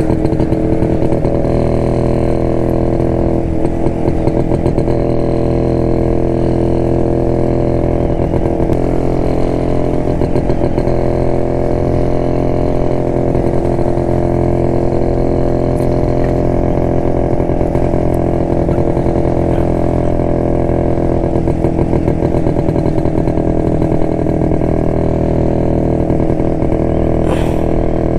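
1972 Jawa motorcycle's two-stroke engine running steadily while riding, its pitch holding nearly even with only small changes in speed.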